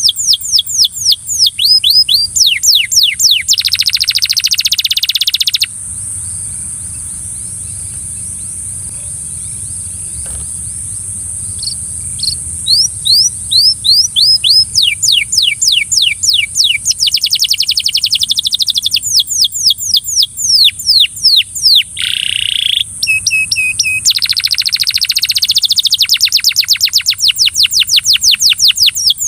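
Canary singing: fast runs of falling whistled notes and rolling trills. It stops for about six seconds, then starts again. A steady high hiss runs underneath.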